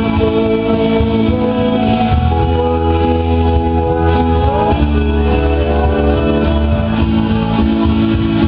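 Band playing live: sustained guitar and synthesizer notes over heavy held bass notes, with a sliding note about halfway through.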